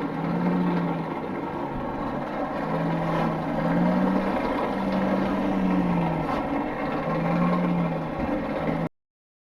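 Steady roaring drone of a running forge, with a low hum that swells and fades every second or two; it cuts off abruptly near the end.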